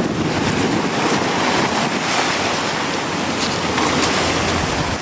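Strong wind blowing across the microphone, with sea surf underneath, a steady loud rushing with no let-up.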